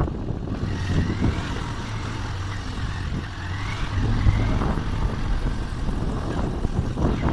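Motor vehicle engines running in slow traffic: a steady low engine drone with road noise.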